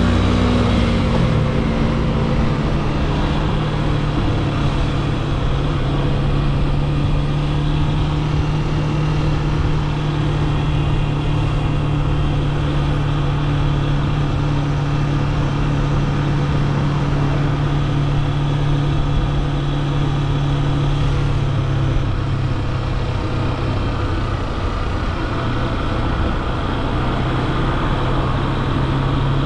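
Yamaha FZ S V3's 150cc single-cylinder engine running while the motorcycle is ridden along at a steady pace. The engine note falls just after the start, holds steady, then eases off briefly and picks up again near the end.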